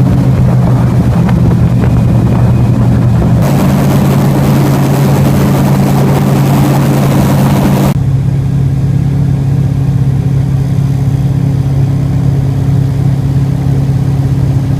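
Airboat's engine and propeller running loud and steady. A rushing hiss rises sharply about three and a half seconds in and cuts off abruptly at about eight seconds, after which the engine runs on steadily.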